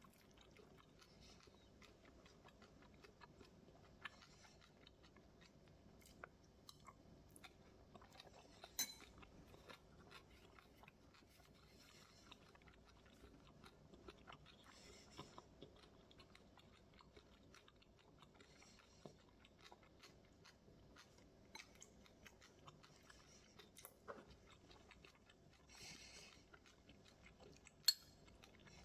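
Faint close-up chewing and crunching of a mouthful of bibimbap, with many short sharp clicks. The loudest clicks come about nine seconds in and just before the end.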